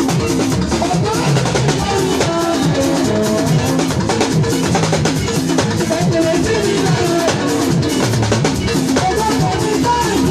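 Gospel band music driven by a busy drum kit keeping a steady beat, with bass and a melodic line underneath.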